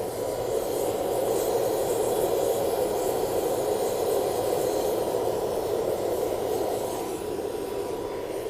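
Blower forcing air into a charcoal-fired paint-can furnace: a steady rush of air and fire with a faint steady hum, as the furnace runs hot enough to melt aluminium. It eases off slightly near the end.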